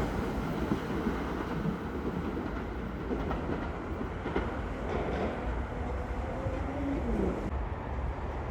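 Metro-North commuter train rolling through the station: a steady rumble with occasional clicks from the wheels on the rail joints.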